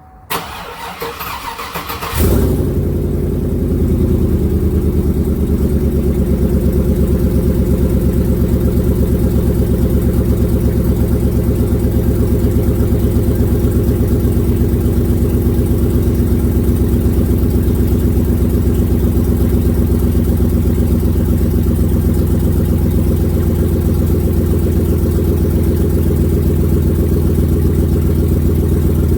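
2003 Chevrolet Silverado 1500HD's 6.0-litre V8 cranked by the starter for about two seconds, then catching about two seconds in and settling into a steady idle.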